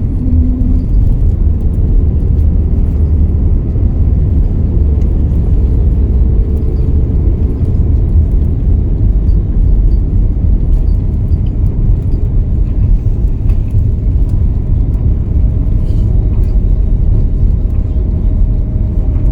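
Cabin noise inside an Airbus A320neo airliner: a loud, steady low rumble of the engines and airflow, with no sudden events.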